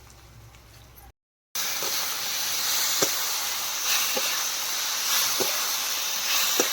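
Loud, steady cooking hiss from a pot on the stove, with a few soft pops, starting suddenly about a second and a half in.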